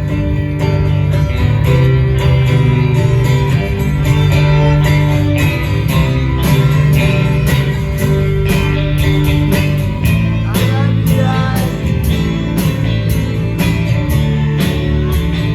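Live band playing an instrumental passage: guitar over sustained bass notes, with a steady beat.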